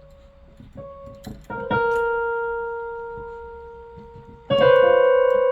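Piano keys pressed a few at a time, with no tune: a cluster of notes about a second and a half in and a louder cluster near the end, each left ringing and slowly fading, with small taps and clicks before them.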